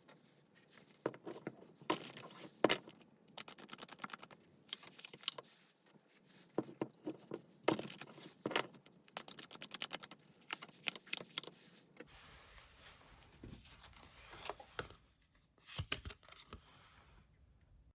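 Tarot cards being shuffled and handled: quick runs of sharp papery clicks and slaps. About twelve seconds in, the background changes to a steady hiss, with a few more card clicks.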